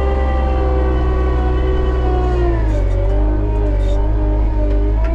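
Bobcat T77 compact track loader's diesel engine running steadily, with a low drone and a whine above it; the pitch sags briefly about two and a half seconds in, then comes back up.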